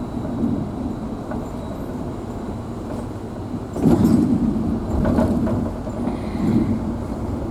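Vehicle driving along a road, heard from inside the cabin: a steady low engine and road rumble, with a louder jolt about four seconds in and a smaller one a second later.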